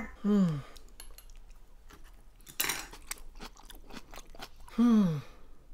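Someone chewing crunchy fermented cabbage, with small clicks of chopsticks against a bowl. Two short murmurs falling in pitch, one just after the start and one near the end.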